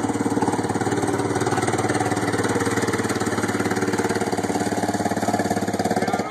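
Small single-cylinder-style engine of a mini go-kart running steadily, its firing pulses rapid and even throughout.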